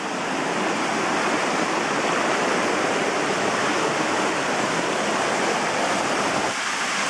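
Mountain waterfall, its water rushing steadily and loudly.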